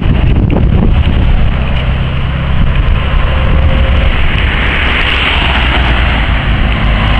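A vehicle engine runs with a steady low rumble under loud, continuous wind noise on the microphone.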